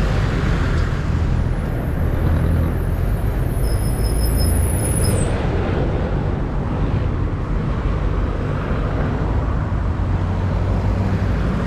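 Road traffic passing close by: a steady engine rumble and tyre noise, with a thin high whine from about one and a half to five seconds in.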